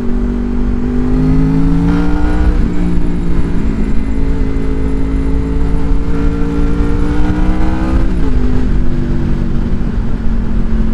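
Honda VFR motorcycle's V4 engine running under way, its note climbing for the first couple of seconds, changing near two and a half seconds in, then holding steady before dipping briefly about eight seconds in. Low wind rumble on the helmet-mounted microphone lies underneath.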